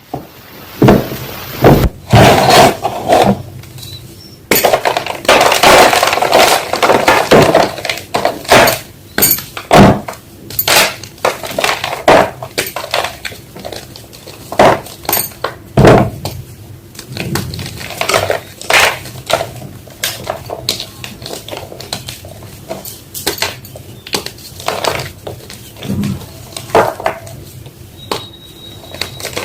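Homemade gym chalk block being crushed, crunching and snapping in irregular cracks with stretches of denser crumbling.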